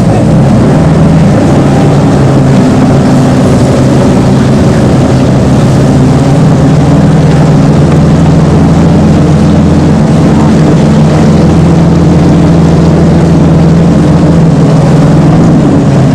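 Engine of a World War II DUKW amphibious truck (Army Duck) running steadily under way, heard loud from aboard.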